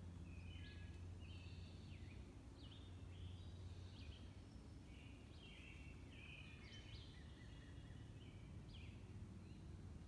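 Faint woodland bird song: short phrases of clear, down-slurred whistled notes repeating about once a second, over a low steady background rumble.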